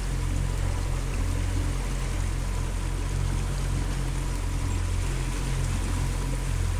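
A boat's motor running steadily, with the rush of water along the hull.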